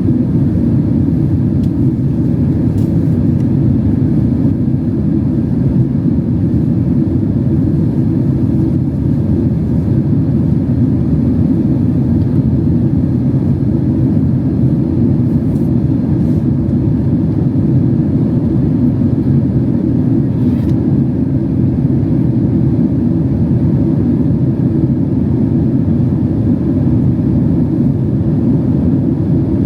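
Steady cabin noise inside a Boeing 767-300 airliner in flight: a low, even rumble of engines and air rushing past the fuselage, unchanging throughout.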